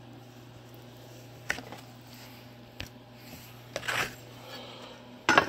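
Cardboard template being bent in a bending brake: a few sharp clicks and a rustle of handling, then a louder short clunk near the end, over a steady low hum.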